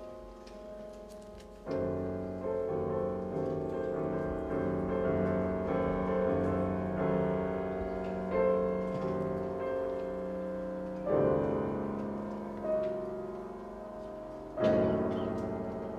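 Piano playing classical music: full chords struck a few seconds apart and left to ring, with slower notes moving between them.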